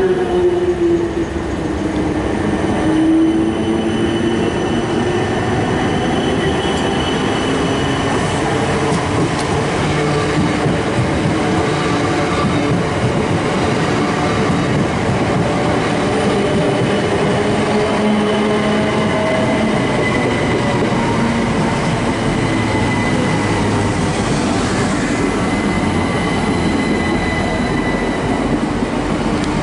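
Electric multiple-unit trains running through the platforms: a steady loud rumble of wheels on rail with whining traction motors, one whine falling in pitch over the first few seconds. A South Western Railway Class 455 unit is alongside, and a Southern electric train passes close near the end.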